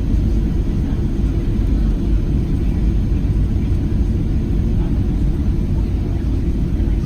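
Steady low rumble of a Boeing 737-700 heard from inside the passenger cabin, its CFM56 jet engines running and airflow over the fuselage making an even, unbroken roar.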